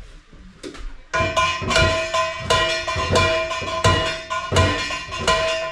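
A ringing piece of steel struck hard again and again with a hammer, about a dozen blows at two to three a second starting about a second in, the metal ringing on at the same pitch between blows and dying away after the last.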